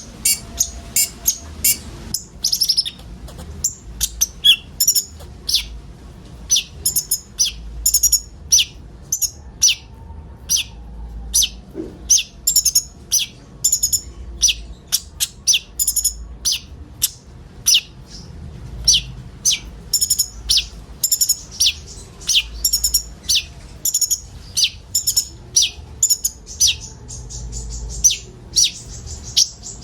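Several sunbirds (konin) chirping together in a continuous stream of short, sharp, high chirps, several a second, with no break.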